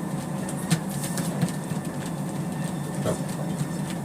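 Motorized treadmill running steadily with a low hum, with a few sharp clicks scattered through it while a dog walks on the belt.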